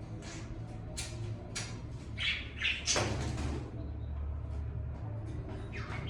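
Budgies chirping, with a few short sharp rustles of wings, over a low steady hum.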